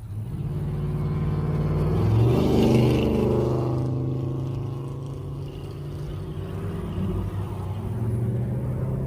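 Car engines pulling out and driving past. One speeds up about two seconds in, its engine note rising and growing louder before fading, and another engine gets louder near the end.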